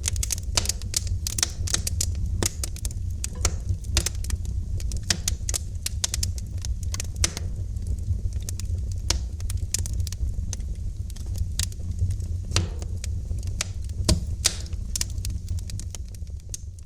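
Wood fire crackling in a fireplace: a dense, irregular stream of sharp pops and snaps over a steady low rumble of the flames.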